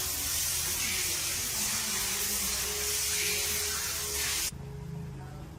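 A loud, steady hiss of spraying air or fluid, like a compressed-air nozzle or spray gun held open, that cuts off abruptly about four and a half seconds in.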